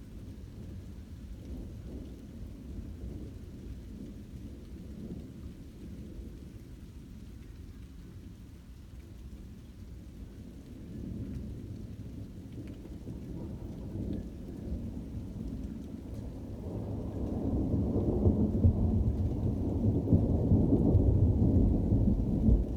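Rolling thunder rumbling on without a break, low and deep, with rain falling. The rumble builds from about halfway through and is loudest near the end.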